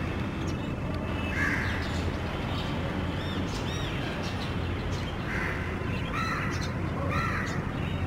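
Birds calling: harsh, rasping calls about a second and a half in and three more in the second half, with a couple of short high whistled notes between them, over a steady low rumble.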